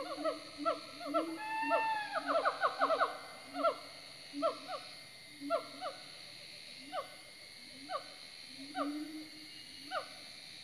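Birds calling in forest: a series of short, downward-sliding whistled notes, quick at first and then slowing to about one a second, over a string of low hooting notes.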